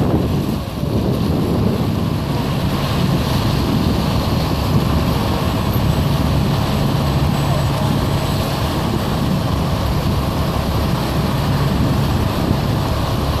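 Steady rumble of vehicles in a procession, with a low engine hum held through most of it, under wind buffeting the microphone.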